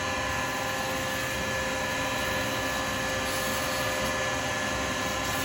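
Pen lathe running steadily with a constant whine, as 180-grit paper is kept moving against the spinning acrylic pen blank while wet sanding.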